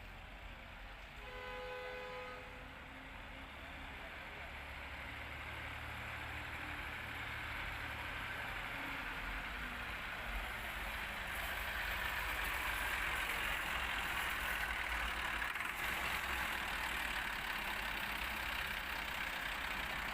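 A vehicle horn toots once, briefly, about a second in. Then a motor vehicle's engine and road noise runs steadily and grows louder.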